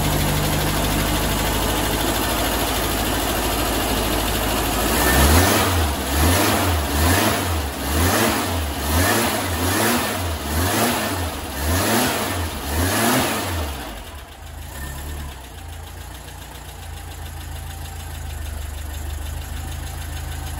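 VW air-cooled flat-four engine with an AMR500 supercharger kit, running with the fuel enricher on. It idles steadily, then about five seconds in it is blipped on the throttle about once a second for some eight seconds, then settles to a quieter steady idle. This is a test start-up of the freshly fitted kit, and it runs well.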